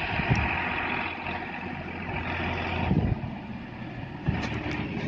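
Mahindra Arjun 555 DI tractor's four-cylinder diesel engine running with a steady low hum. The hum drops away about three seconds in and comes back with a sudden knock a little over a second later.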